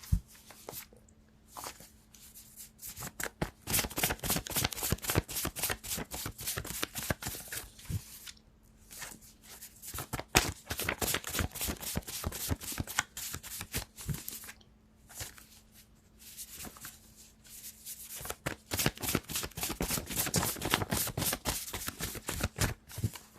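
A deck of reading cards being shuffled by hand, a fast papery riffling of cards in three long spells with short pauses between.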